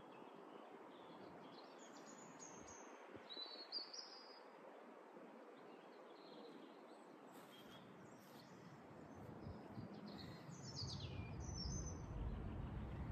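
Faint songbirds chirping and singing short falling phrases, in two bursts, a few seconds in and again near the end, over a steady outdoor hiss. A low rumble builds near the end.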